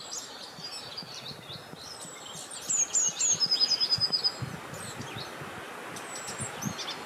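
Several small songbirds chirping and calling, with a quick run of falling notes about three seconds in followed by a fast trill, over a steady rush of wind.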